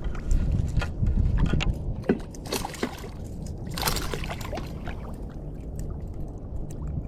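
Water sloshing and splashing against a fishing kayak over a low rumble, with scattered small knocks and splashes, most of them in the middle.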